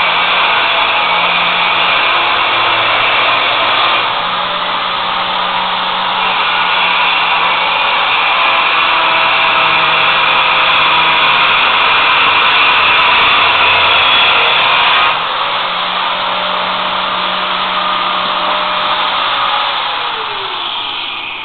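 Steady whirring of an electric motor-driven tool or blower running continuously, with abrupt shifts in tone about 4 and 15 seconds in and fading slightly near the end.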